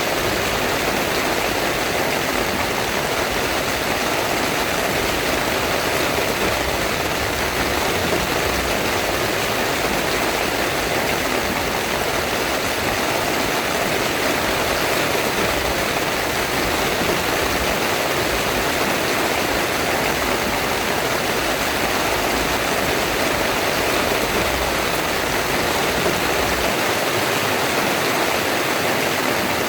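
Heavy rain pouring steadily, an even, unbroken hiss with no let-up.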